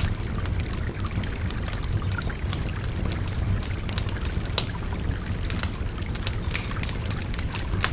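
Wood fire crackling with sharp, irregular pops, over the steady low rush of a babbling river.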